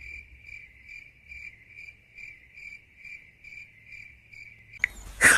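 Cricket chirping, a high trill pulsing about twice a second. It stops near the end, followed by a brief loud burst.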